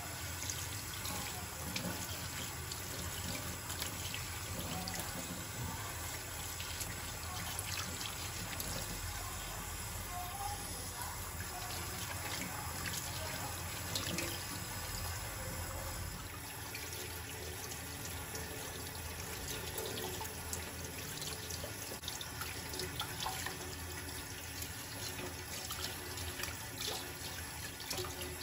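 Kitchen tap running into a sink, a steady rush of water, with the low end of the flow easing a little about halfway through. Soft background music underneath.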